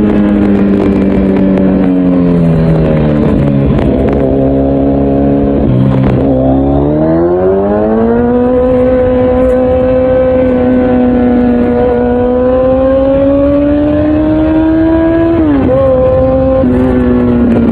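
Kawasaki Z900's inline-four engine through an Akrapovic full exhaust system, heard from the riding bike: the engine note falls in steps as it slows and changes down, then rises about six seconds in as it accelerates and holds a steady pitch, with a quick dip and pick-up near the end as it shifts.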